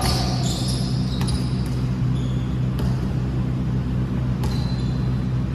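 Steady low hum of a game hall, with a few scattered knocks and short high squeaks, typical of a ball and sneakers on an indoor court.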